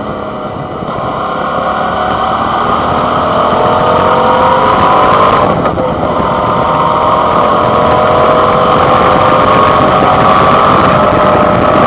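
Suzuki V-Strom 650's 90-degree V-twin engine accelerating, rising in pitch and getting louder. It drops off briefly about halfway through, as at a gear change, then climbs again. It is heard through a handlebar-mounted camera's built-in microphone.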